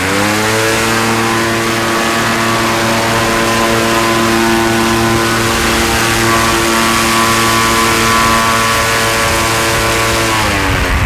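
An engine revving up, held at a steady high speed for about ten seconds, then dropping back near the end.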